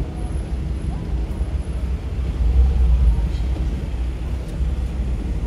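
Low, steady engine rumble of a slow-moving car on a city street, swelling for a moment about two and a half seconds in.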